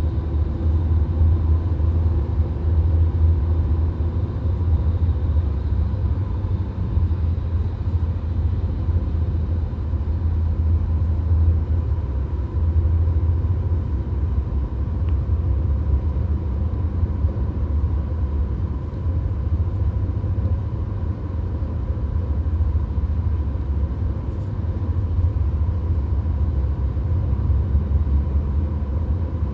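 VW Golf cruising at highway speed, heard from inside the cabin: a steady low rumble of tyres, engine and wind, with a faint steady whine.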